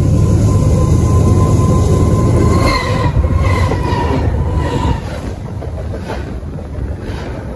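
CN freight train running directly overhead on the rails: a loud, heavy low rumble with a thin steady whine, then a series of sharp wheel clacks from about three seconds in as the wheels pass over. After about five seconds it settles to a somewhat quieter rumble.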